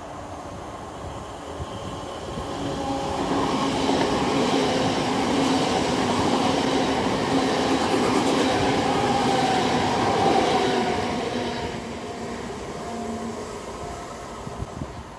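Train running on the rails, building up over about three seconds, loud for several seconds, then dying away near the end, with steady pitched tones over the rumble.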